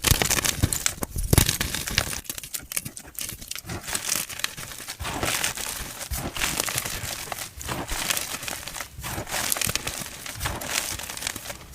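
Gym chalk being crushed and crumbled, a continuous dense crunching and crackling.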